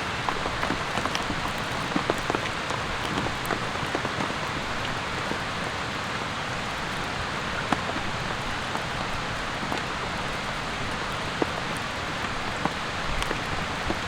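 Steady rain falling, with many separate drops ticking sharply close by over the even hiss.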